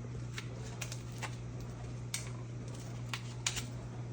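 Cockatoo chewing and cracking a toy with its beak: irregular sharp clicks and snaps.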